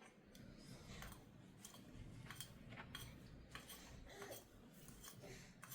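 Faint, irregular light clicks and taps, as of small objects being handled, over a low background rumble.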